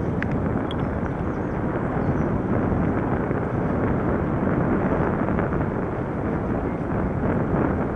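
Wind buffeting the microphone of a moving bike ride: a steady, loud rushing rumble with no engine note standing out.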